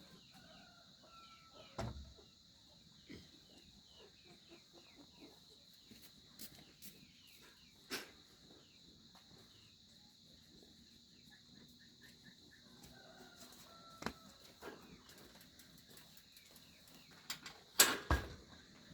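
Quiet rural ambience: a steady high insect drone with many short bird chirps, a few scattered knocks, and a louder clatter of knocks near the end.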